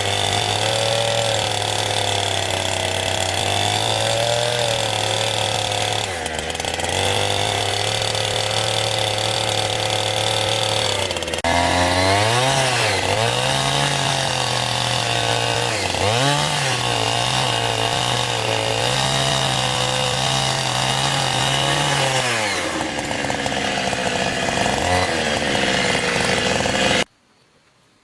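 Chainsaw engine running steadily, its pitch dipping and recovering a few times in the middle. The sound cuts off suddenly about a second before the end.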